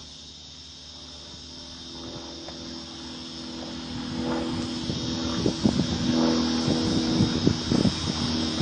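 Modified minibike's small engine running and growing louder as it comes closer, with a run of irregular sharp cracks and knocks in the second half.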